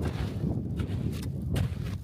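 A hiker's footsteps while walking, about two steps a second, each step a short crunch, over a steady low rumble.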